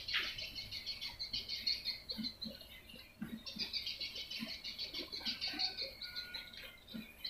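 Swiftlet lure sound: swiftlets twittering in a dense, rapid run of high chirps, several a second, with a short lull about three seconds in. It is the kind of call played to draw swiftlets into a nesting house.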